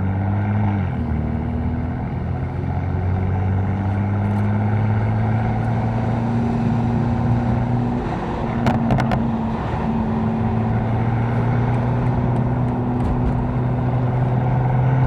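Catless BMW M4's twin-turbo straight-six running at a steady low drone while cruising in traffic, its pitch edging up slightly near the end. A few brief clicks about nine seconds in.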